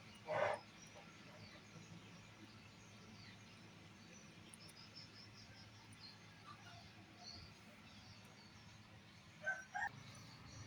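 One short animal call about half a second in and two quick calls near the end, over faint outdoor chirping of birds and insects.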